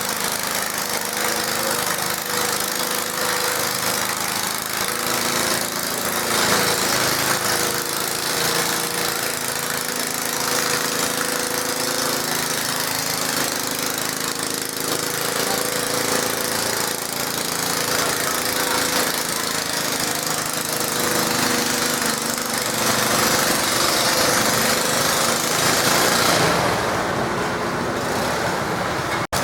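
Garden tractor engine running rough and loud at a steady pitch, under load while pulling a weight sled.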